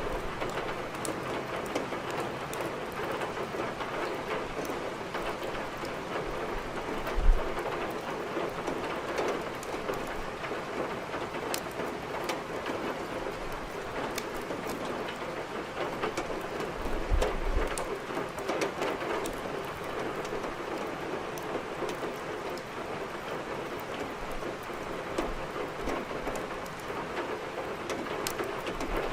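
Steady rain pattering, mixed with the crackle and snap of burning firewood in a fireplace. There is a low thud about seven seconds in and a low rumble around seventeen seconds.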